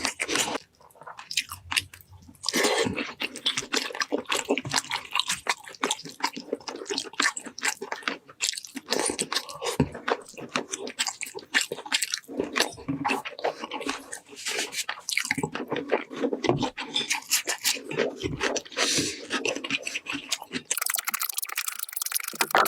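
Close-miked chewing and biting into roast meat, with wet smacking and crunching of crisp skin in quick irregular bites. A steady hiss comes in near the end.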